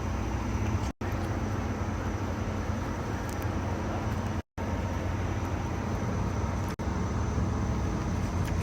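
Steady low rumble and hiss of a vehicle, broken by brief drop-outs to silence three times.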